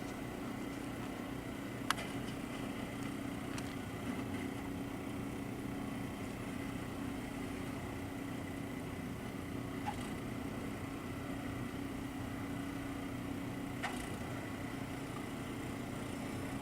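An engine running steadily, with a few faint sharp clicks over it.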